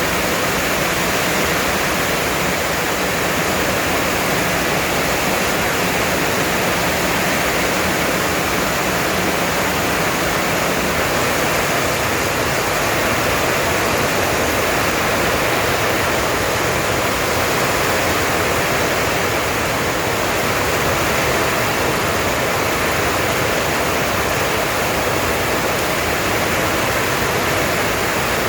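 Heavy rain falling in a steady, unbroken downpour: a dense, even hiss that does not let up.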